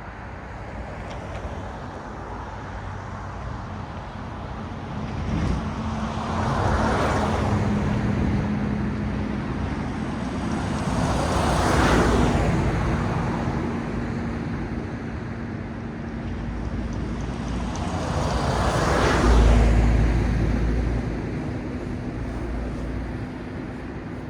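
Cars passing one after another on a road, the tyre noise swelling and fading as each goes by: three clear pass-bys, the last the loudest with a deep rumble. A steady low hum runs under them.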